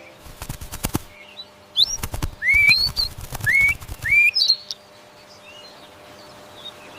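A bird calling: four short whistled calls that sweep upward and level off, about two to four and a half seconds in, with sharp clicks and rustles around them. Quieter after about five seconds.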